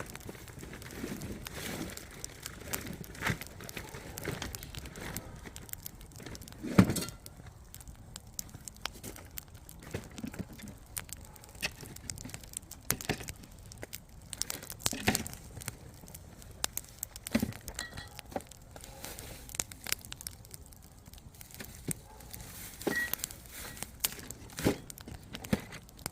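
Firewood burning in a campfire, crackling with irregular sharp snaps and pops over a soft hiss; one pop about seven seconds in is the loudest.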